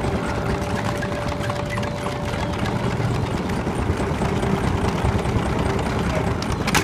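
Earthquake shake table running: a steady low rumble with continuous rattling. There is one sharp knock near the end.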